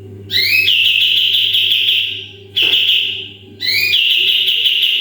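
Kapas tembak bulbul singing its rapid-fire 'tembakan' song. It gives three loud, fast rattling trills, each opening with a quick upward sweep: the first lasts about two seconds, the next is shorter, and the third starts at about three and a half seconds in.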